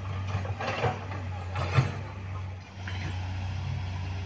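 Heavy diesel engine running steadily at low revs, with a few sharp metallic knocks, the loudest about two seconds in.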